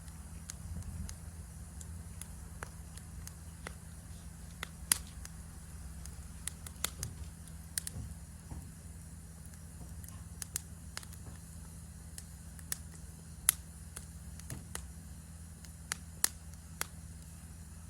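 Wood campfire crackling, with irregular sharp pops scattered through over a steady low rumble. A faint steady high chirring of forest insects runs underneath.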